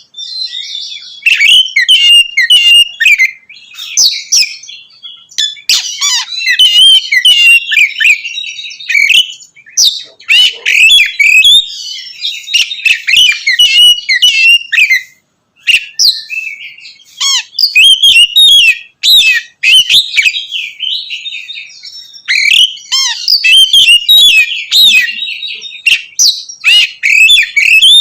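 Oriental magpie-robin singing loudly in long, rapid phrases of varied whistles and harsh chattering notes, separated by brief pauses.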